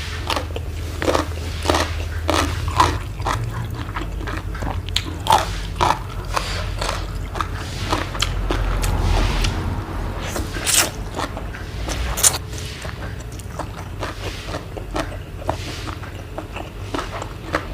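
A person eating spicy seafood papaya salad close to the microphone: chewing and biting, with many short crunches at an irregular pace.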